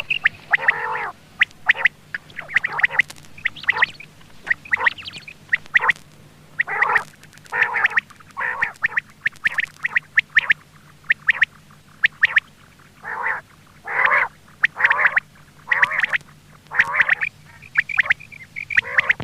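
Quail calling over and over: short nasal calls, roughly one or two a second, mixed with sharp clicking notes. A faint steady hum runs underneath.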